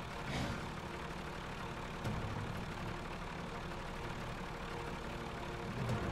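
Altered stock pulling tractor's engine running steadily at a low, idling speed, with a few short blips.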